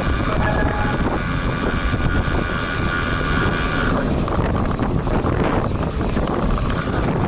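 Wind buffeting the built-in microphone of a bike-mounted action camera while riding, a loud, steady rumble. A set of steady higher tones runs through it and stops about four seconds in.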